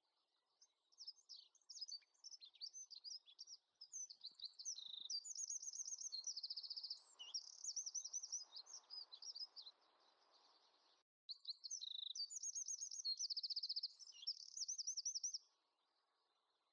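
Songbird chirping and trilling in quick, high-pitched runs of notes, with a sudden short break about eleven seconds in and stopping shortly before the end.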